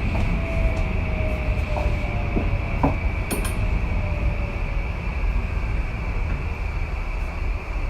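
Onboard running sound of a Tokyu 2020 series electric commuter train: a steady low rumble of wheels on rail with a steady high hum. A faint tone slowly falls in pitch, and a few sharp clicks come about two to three seconds in.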